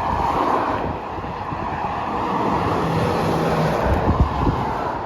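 Busy motorway traffic, lorries and cars passing in a steady rush, with wind buffeting the microphone.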